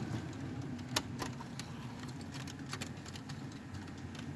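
HO scale model coal train running on the layout with no sound decoder: a steady electric motor and wheel hum with sharp clicks and clatter of wheels over the track, the loudest about a second in. One car of the train is derailed and being pushed along toward a turnout.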